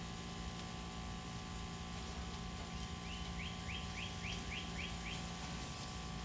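Steady hiss with a faint hum throughout, and a bird calling a quick run of about seven short falling notes, starting about three seconds in and lasting about two seconds.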